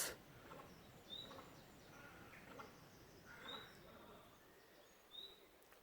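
Faint, short high bird chirps, three brief upward notes spaced a second or two apart, over a quiet woodland background.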